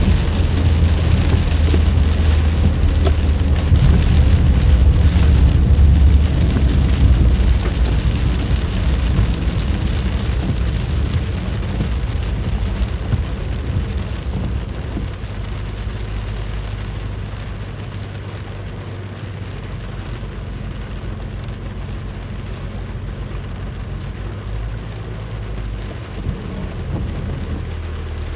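Rain beating down steadily during a thunderstorm, with a deep rumble of thunder that swells over the first several seconds and then slowly fades away.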